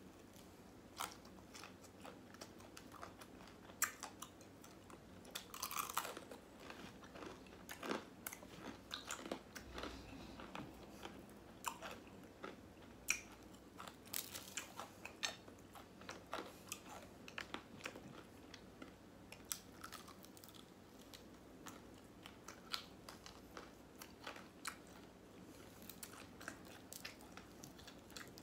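Popeyes fried chicken being bitten and chewed: irregular crisp crunches of the fried breading, several a second, with wet chewing between them.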